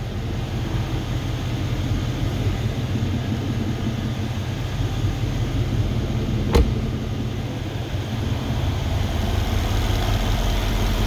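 Mercedes E63 AMG's twin-turbo V8, freshly rebuilt, idling steadily with the bonnet open. A single sharp click is heard about six and a half seconds in.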